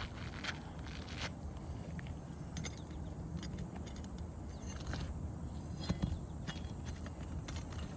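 Scattered light clicks and scrapes of handling and footsteps on a shingle roof, the strongest a little before six seconds in, over a low steady rumble.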